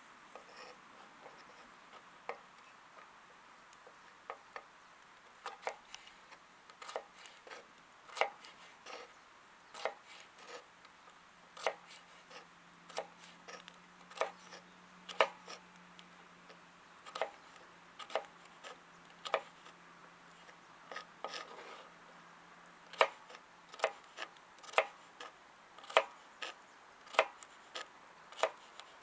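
Kitchen knife cutting vegetables on a cutting board: sharp, separate knocks of the blade striking the board, irregular at first and then about one a second near the end.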